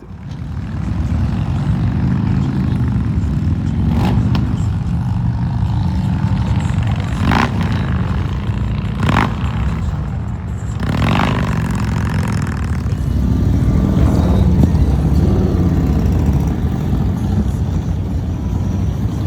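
Motorcycle running on the road, a steady low rumble with wind buffeting on the microphone, and a few short sharp clacks spread through it.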